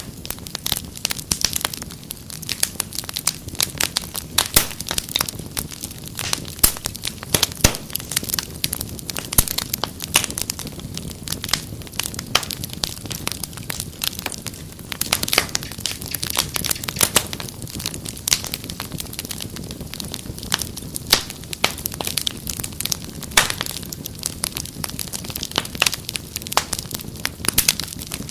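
Wood fire crackling: dense, irregular sharp pops and snaps over a low steady hiss of burning.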